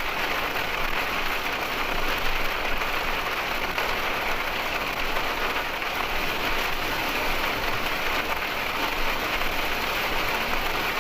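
Heavy rain beating on the windshield and body of a moving motorhome, heard from inside the cab: a steady, even hiss.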